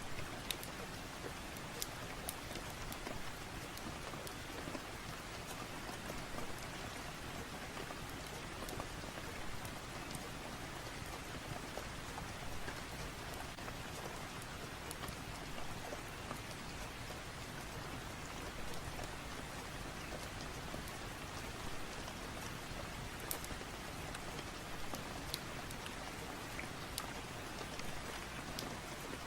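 Steady rain falling, with scattered sharp ticks of drops through it.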